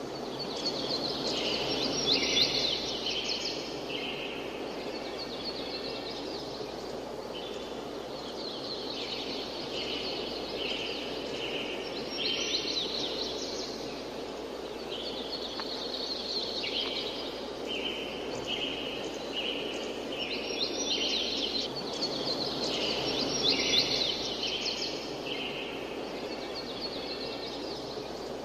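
Songbird singing, repeating the same song every few seconds: a quick run of high chirps followed by a run of stepped notes. A steady background noise runs underneath.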